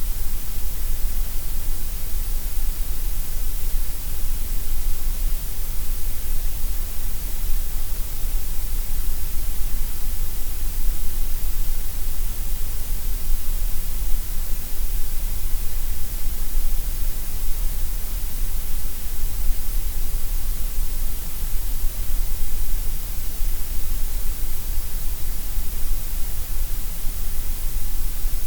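Synthetic gray noise: a steady, unbroken hiss with a strong deep rumble underneath and a bright top, unchanging throughout.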